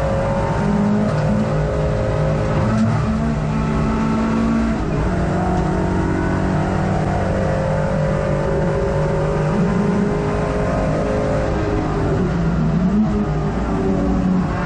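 Hot hatch race car's engine heard from inside the cabin, running hard at racing speed, its pitch rising and falling through the laps with throttle and gear changes, over steady road and wind noise.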